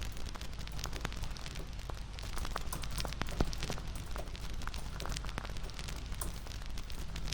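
Wood fire crackling: dense, irregular pops and snaps over a steady hiss and low rumble, with one louder pop about three and a half seconds in.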